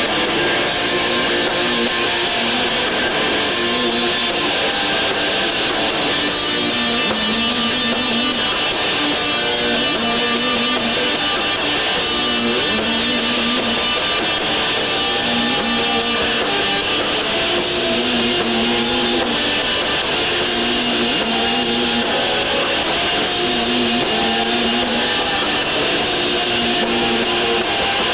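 Rock band playing live: loud electric guitars, bass and drums, with a steady cymbal beat and repeated guitar and bass figures, and no pause.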